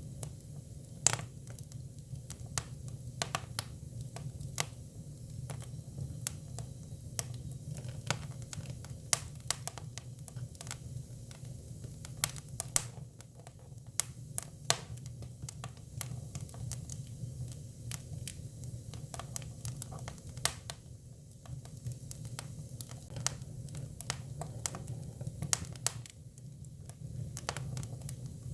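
Hinoki cypress firewood burning, crackling with irregular sharp pops over a steady low rumble.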